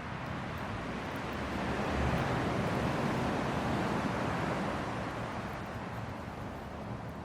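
Hardwood fire burning in a fire pit, with a few faint crackles. A rushing, wind-like noise swells for a few seconds in the middle, then eases.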